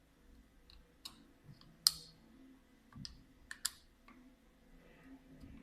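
A few short, sharp clicks and clinks of small hard parts being handled, the loudest about two seconds in and two close together a little later.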